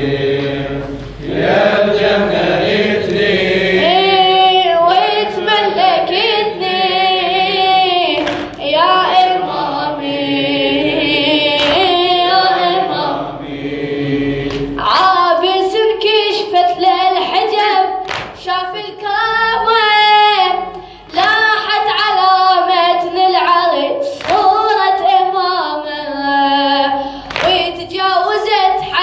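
Unaccompanied voices singing a Shia mourning chant (latmiya) in long, melismatic phrases, with no instruments.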